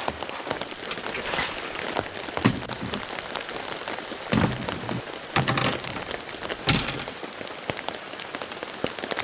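Heavy rain falling steadily, with dense pattering drops and a few louder single drops landing about two and a half, four and a half, five and a half and almost seven seconds in.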